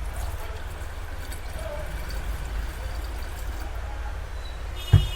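Water pouring into an electric kettle over a steady low hum, then a single sharp knock near the end.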